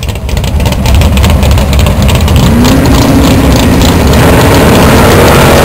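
A drag-race 1967 Ford Mustang's engine running loud and rough as the car rolls through the water box. About two and a half seconds in, the revs rise and then hold, and the sound grows harsher toward the end.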